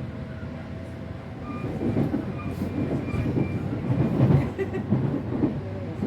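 Electric commuter train running, heard from inside the passenger car: wheels on the rails with a clickety-clack, the running noise growing louder about a second and a half in.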